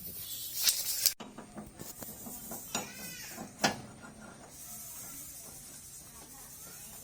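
A short, wavering animal call about three seconds in, with a sharp knock just after. Before it, a hissing burst cuts off suddenly about a second in.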